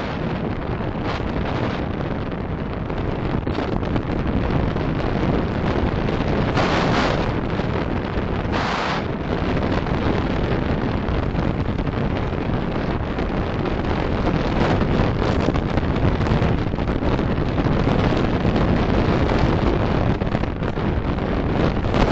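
Steady road and wind noise from a car driving, with two brief louder hissing swells about seven and nine seconds in.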